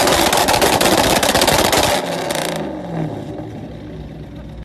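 A loud scraping, clattering noise for about two seconds, dying away into car engine and road noise with a brief rev about halfway through.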